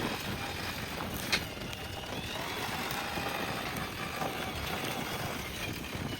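JCB backhoe loader's diesel engine running steadily, with one sharp click a little over a second in.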